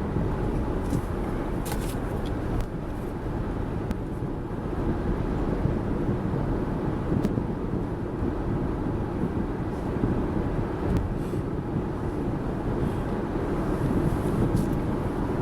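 Wind noise buffeting in through an open car window at highway speed, together with the car's road noise. It stays steady and loud throughout.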